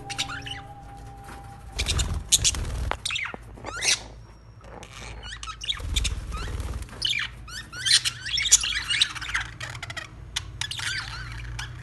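Budgerigars chirping and chattering: many short, warbling high calls, busiest in the second half.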